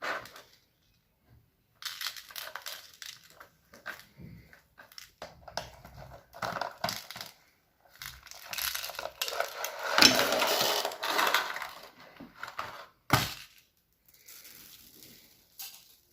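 Slime being worked and mixed by hand, in irregular squishing, crackling spurts with short pauses, densest and loudest in the middle, with one sharp click near the end.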